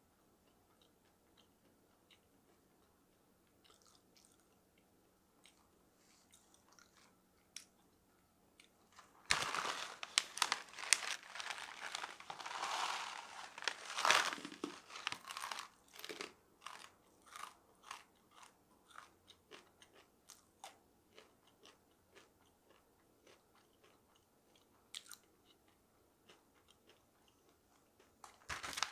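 Crunchy dried jujube slices being bitten and chewed close to the microphone. After some faint clicks comes a dense spell of loud crunching for several seconds, which thins into sparser, softer crunches as the chips are chewed down. A brief loud burst of noise comes at the very end.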